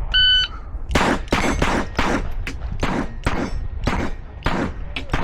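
An electronic shot timer beeps once, then a .22 rimfire pistol fires a quick string of shots, roughly two a second, with steel targets ringing on hits.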